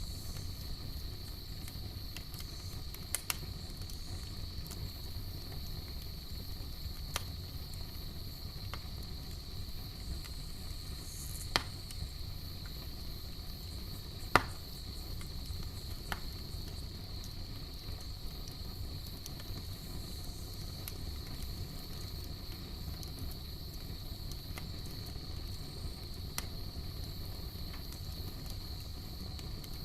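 Campfire burning with a low steady rumble and scattered sharp crackles and pops, the loudest about halfway through. A steady high insect chorus runs underneath.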